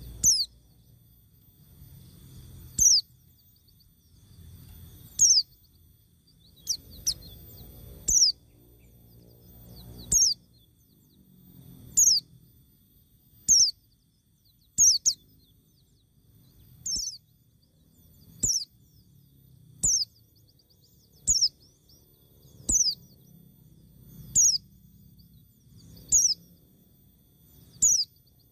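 A bird calling: short, high chirps, each falling in pitch, repeated about every one and a half to two seconds.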